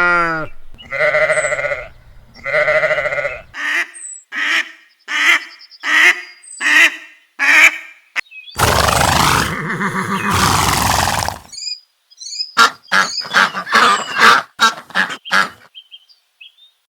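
Farm animal calls: two long pitched calls, then a string of short calls, a long noisy rush in the middle, and more rapid short calls near the end, with high bird chirps scattered throughout.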